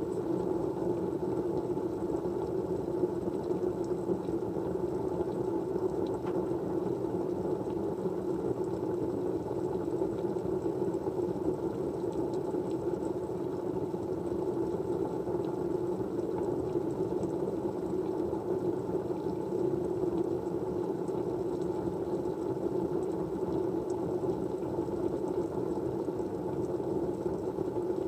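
Steady white noise: an even, low rushing hiss that never changes or pauses.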